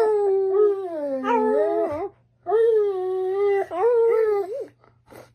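A dog howling: two long, wavering howls with a short break between them.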